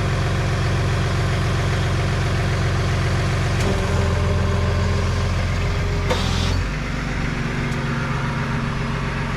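Tow truck engine running with the PTO engaged while the hydraulic winch is worked. Its note changes a little under four seconds in and drops back after about six and a half seconds, with a click and a short hiss just before the drop.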